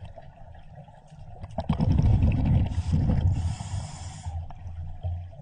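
Scuba diver breathing through a regulator underwater: a rasping breath about one and a half seconds in, then two hissing rushes of exhaled bubbles, the second lasting about a second.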